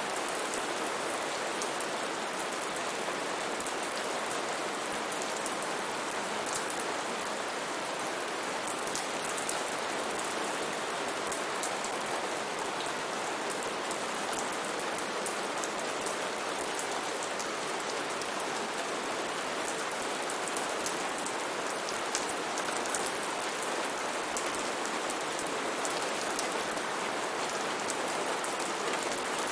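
Steady, unbroken rainforest rain: an even hiss of downpour with countless individual drops ticking sharply on surfaces.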